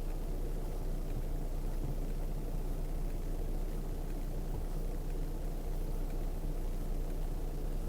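Off-road vehicle's engine running steadily at low speed, a constant low drone with no change in pitch.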